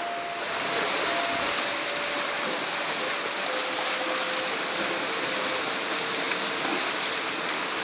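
Steady rushing wash of ocean surf at a bay, with a faint held tone that steps lower in pitch several times.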